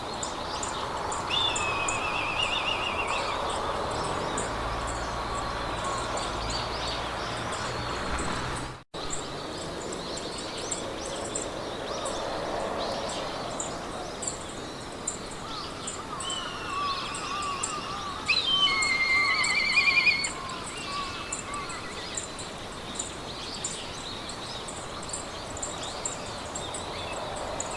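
Meadow ambience: birds singing short warbling trills over a steady hiss of wind through grass, with a fast, high-pitched ticking running underneath. The birdsong is loudest in a bright trilling burst about two-thirds of the way through, and the whole sound drops out for an instant about nine seconds in.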